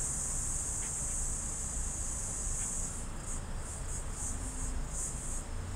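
High-pitched insect song, a steady shrill buzz that breaks into short irregular pulses about three seconds in.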